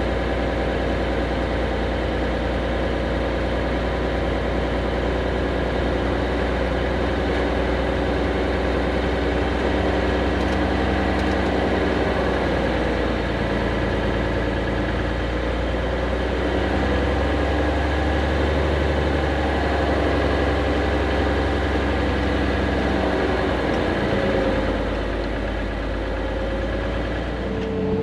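Heavy equipment's engine running steadily with a low rumble, its tone wavering a little through the middle.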